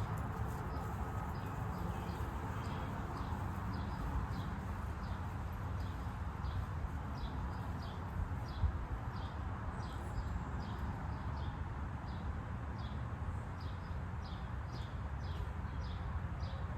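Walking footsteps, a light regular tick about twice a second, over a steady low rumble, with one brief knock about halfway through.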